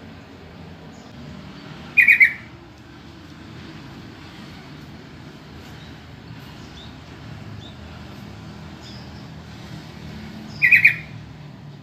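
Yellow-vented bulbul (trucukan) giving two short, loud call phrases about nine seconds apart, over a steady low background rumble.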